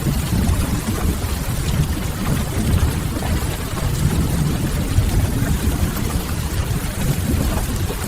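Steady rain with a deep rumbling low end, mixed with faint scattered crackles of a wood fire.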